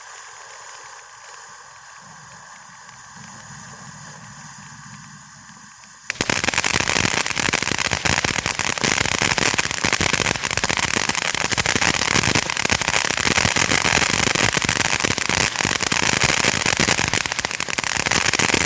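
Winda 'Wonderland' firework fountain spraying with a steady hiss. About six seconds in it breaks into loud, dense crackling: its crackle effect.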